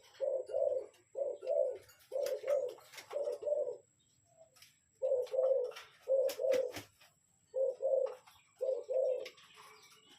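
Spotted dove cooing: low, two-part coos repeated about eight times, with a short pause about halfway through, and a few sharp clicks among them.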